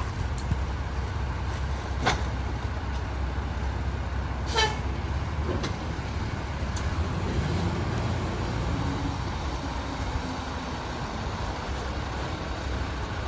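Rear-loader garbage truck running with a steady low engine rumble, with a few sharp knocks and clanks. A brief high-pitched tone sounds about four and a half seconds in.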